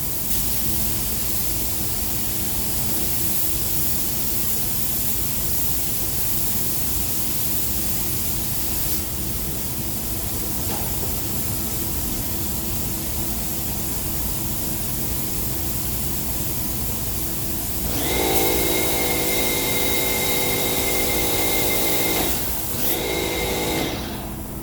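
Air spray gun hissing steadily while the silver-mirror coating is sprayed. About 18 s in, a machine hum with a high whine joins, breaks briefly, and stops near the end.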